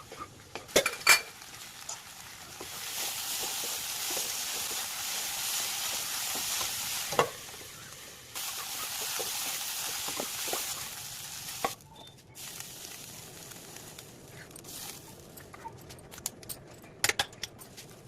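Food sizzling as it fries in a hot pan, in two stretches of several seconds that start and stop suddenly. Sharp knocks and clinks of a utensil on the pan come before, between and after them.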